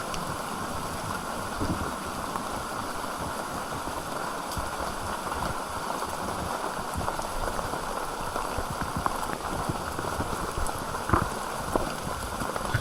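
River water rushing steadily over rocks, with a few short knocks near the end.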